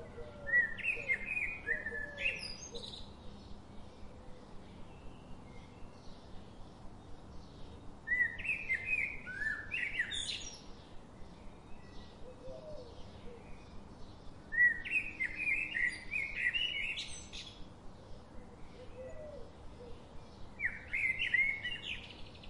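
A songbird singing four short warbled phrases of two to three seconds each, several seconds apart, with faint quick ticks repeating a few times a second in between.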